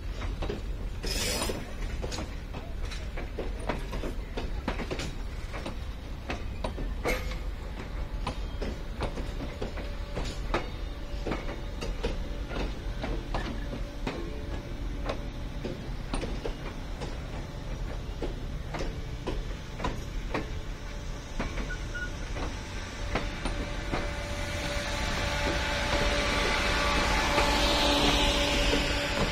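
Heritage passenger train cars rolling slowly past, wheels clicking over rail joints over a steady low rumble. Near the end it grows louder, with a steady engine hum and hiss as a locomotive draws close.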